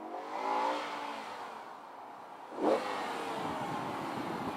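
BMW M5 E60's V10 engine revved through its stock exhaust: a rev that rises and falls in the first second, then a sharper, louder blip about two and a half seconds in that settles back.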